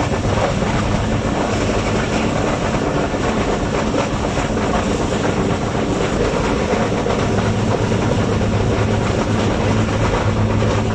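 A passenger train running at speed, heard from its rear coach: a steady rumble of wheels on the rails, with a low hum that grows stronger about seven seconds in.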